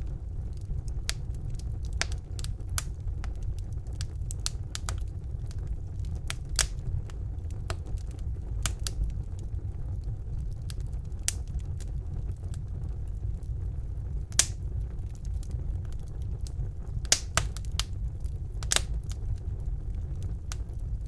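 Wood fire burning in a fireplace: a steady low rumble of the flames with irregular sharp crackles and pops of burning logs, a few louder snaps scattered through.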